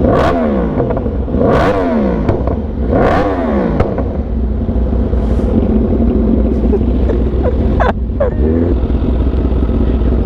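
Sportbike engine revved in three quick throttle blips, the revs falling away after each. It then runs steadily under way, with one more short rev near the end.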